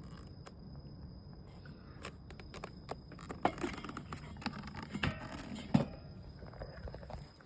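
Bonfire of cardboard and paper crackling over a low steady rush, with scattered sharp pops from about two seconds in, two of them louder.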